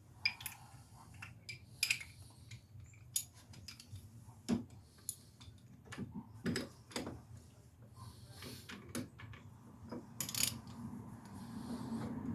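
Metal hand tools clinking and clanking against metal parts: irregular sharp metallic clicks and knocks, some with a short ringing, over a faint steady low hum.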